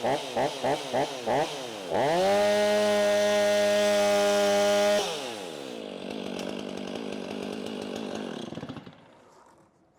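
Stihl 500i fuel-injected two-stroke chainsaw on a test run after cleaning and reassembly. The throttle is blipped in quick revs about four a second, then held at full revs for about three seconds, then drops back to idle, and the engine stops near the end.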